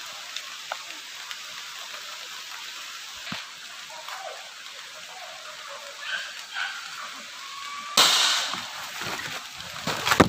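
Steady hiss of heavy rain falling on forest foliage. About eight seconds in, a sudden louder rush of rustling with scattered crackles breaks in, as leaves and undergrowth are brushed through.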